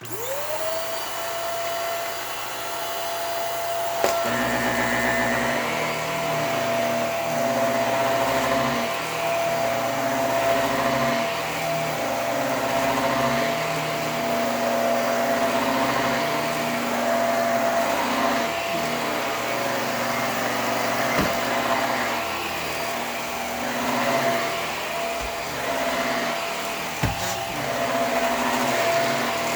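Hoover WindTunnel PowerDrive Pet bagless upright vacuum switched on, its motor whine rising to a steady pitch within the first second and then running loudly. There is a click about four seconds in, after which the running sound swells and dips in slow strokes.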